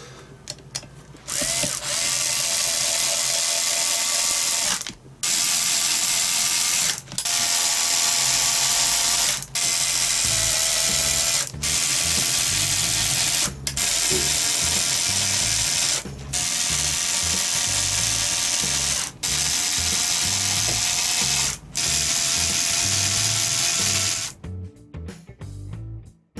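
Ratchet wrench clicking in runs of about two seconds with brief pauses between, during assembly of a Yamaha YB-1 engine.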